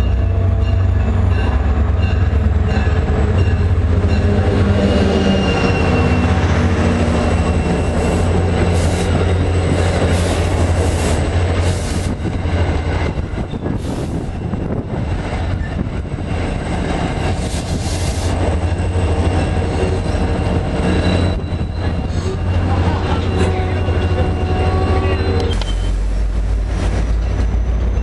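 Diesel-hauled commuter passenger train arriving and pulling in alongside the platform: a steady low engine drone, with wheels clattering and squealing on the rails as the coaches roll past and slow to a stop.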